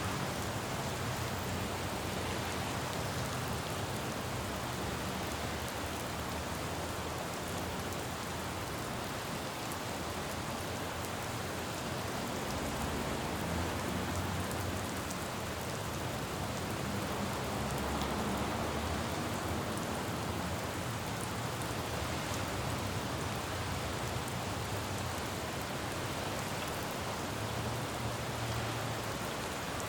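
Steady rain falling on a road, an even hiss. A low rumble of passing traffic swells under it about halfway through and again near the end.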